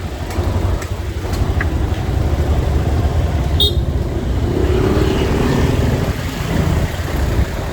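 Ride on a motorcycle through city traffic: a steady low rumble of engine, road and wind, with the sound of surrounding traffic. A short high-pitched sound comes about three and a half seconds in.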